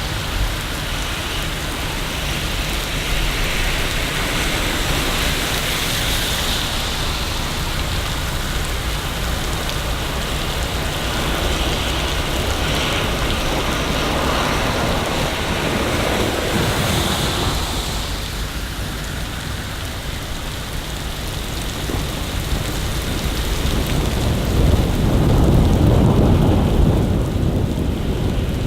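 Steady rain falling on city streets, with a low rumble of thunder swelling over the last few seconds.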